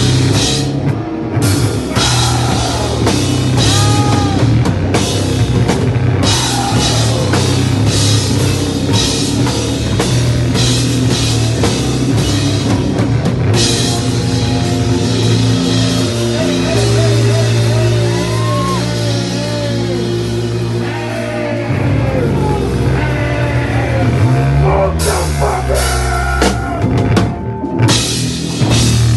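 Hardcore band playing live: distorted electric guitars, bass and a drum kit with crashing cymbals, heard raw through the camera's microphone in the room. The band cuts out briefly about a second in and again near the end, and from about a third of the way through the cymbals drop away under held guitar chords for several seconds before the full kit returns.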